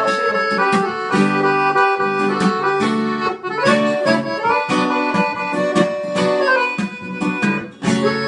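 Instrumental outro of a sertanejo song: a gaita (free-reed instrument) plays held chords and the melody over a strummed acoustic guitar.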